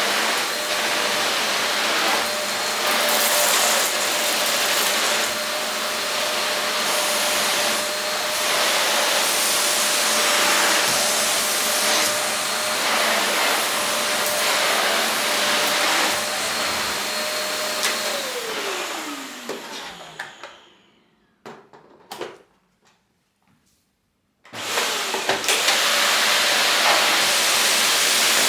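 Silvercrest SBBK 700 B2 700-watt vacuum cleaner running with a steady motor whine and airflow rush. About 18 seconds in it is switched off and the motor winds down in a falling pitch. After a short quiet with a couple of clicks, it starts up again about 24 seconds in.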